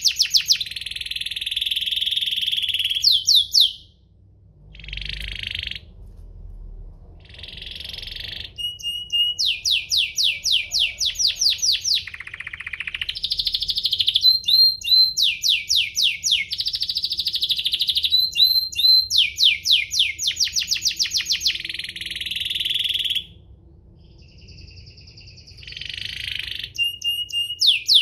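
Domestic canary in full song: fast trills of repeated falling notes alternate with buzzy rolls, broken by short pauses.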